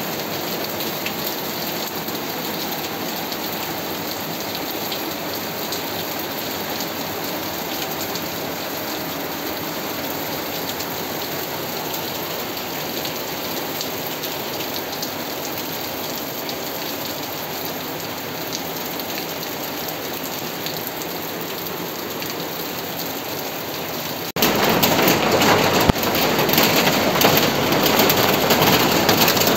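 Rain falling steadily, an even hiss with no rhythm or tones. About 24 seconds in, the sound jumps abruptly to a louder, harsher noise.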